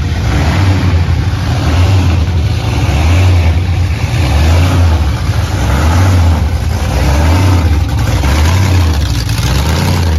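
Classic car engine idling with a loud, deep rumble that swells and dips about once a second as the car creeps slowly past.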